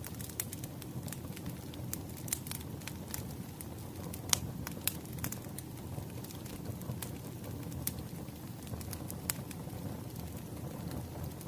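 Wood fire crackling: a steady low rumble of burning logs with sharp, irregular pops and snaps, the loudest about four seconds in.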